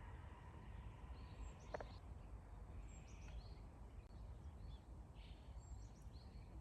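Birds chirping faintly in short high calls and quick falling notes every second or two, over a steady low rumble.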